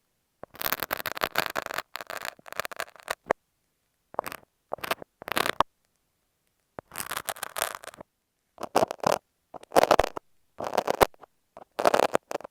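Utility knife and masking tape scraped and rubbed directly on an earphone microphone: close, crackly scratching in bursts of a second or so, separated by dead silence.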